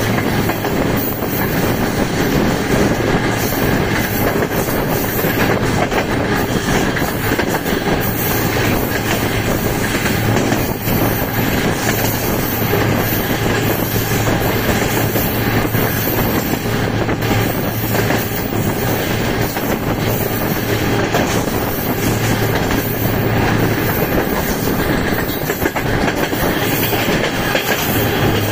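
A Pakistan Railways passenger coach running along the track, heard from its side: a steady rumble and rattle of wheels on rails, with scattered clicks from the rail joints.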